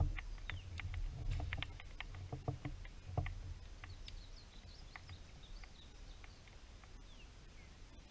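Light scattered knocks and clicks of gear on a kayak, fading after about three seconds, with a few faint high chirps around the middle.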